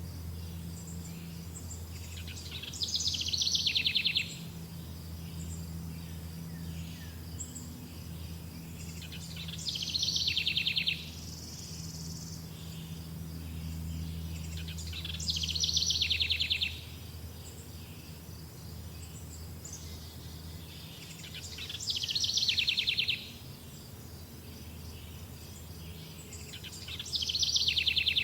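A songbird repeating the same short, rapid trilled song about every six seconds, each phrase falling in pitch and lasting about a second and a half. Beneath it run a steady high insect drone and a low hum.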